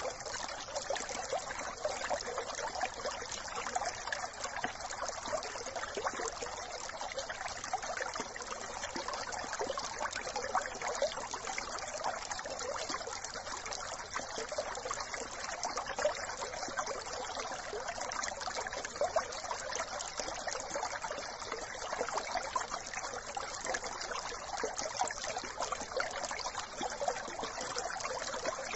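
A small brook trickling and babbling steadily.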